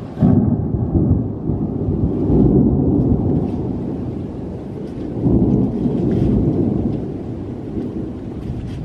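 Thunder: a sudden loud clap just after the start, then deep rolling rumbles that swell twice more and die away, with rain in the background.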